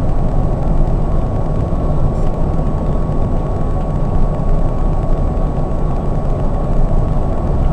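Scania K420 double-decker coach cruising on the highway: the steady low drone of its diesel engine and tyre and road noise, with a faint steady whine.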